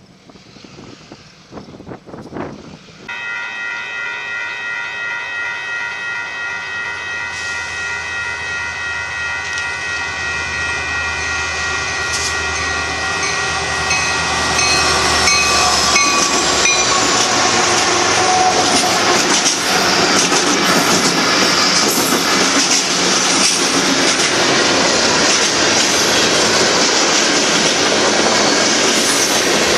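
Union Pacific freight locomotive sounding a long chord from its multi-tone air horn as it approaches, the pitch dropping as it passes. Then the freight train rolling by close and loud, with wheels clacking over the rail joints.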